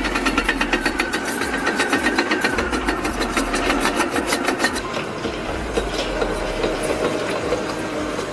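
Heavy machine running, with a fast, even metallic clatter of about six clicks a second that fades out about five seconds in, leaving the engine sound.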